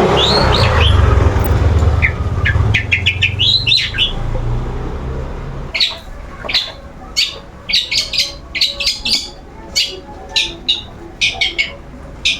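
Long-tailed shrike (cendet) calling in short, sharp, high chirps repeated in quick runs, over a low rumble during the first few seconds.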